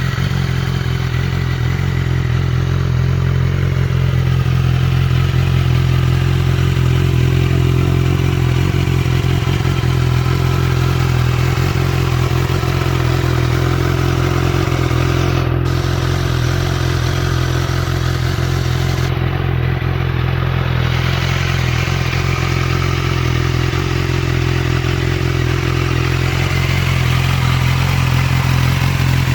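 Motorcycle engine running steadily at idle, its pitch unchanging.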